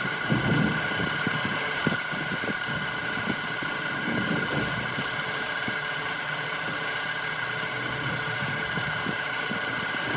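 Electric wood lathe running with a steady motor whine and a rough, uneven rushing underneath as the wood turns.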